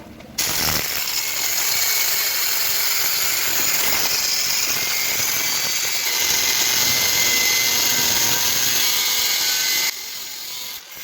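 Power tool running steadily while working metal for a motorcycle exhaust bend pipe, a loud high-pitched noise that cuts off suddenly about a second before the end.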